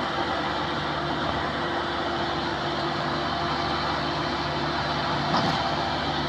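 Rice combine harvester's engine running steadily with a constant mechanical hum, and a brief knock about five seconds in.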